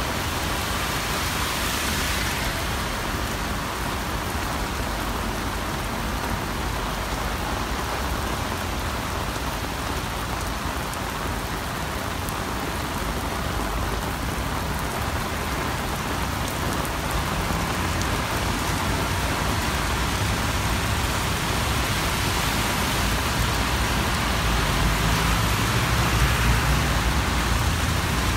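Heavy downpour pelting a wet paved street and sidewalk, a steady hiss of rain. A low rumble swells underneath near the end.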